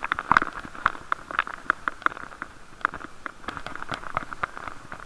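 Many irregular clicks and rattles from a bicycle ride, picked up by an action camera sealed in a waterproof case, with a steady muffled hiss beneath.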